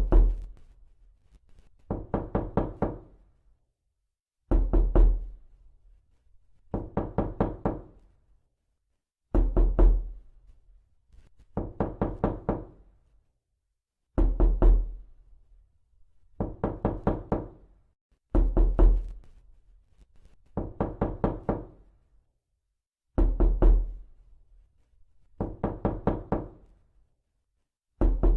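Knuckles rapping on a door in quick bursts of four or five knocks. A new burst comes about every two seconds, over and over.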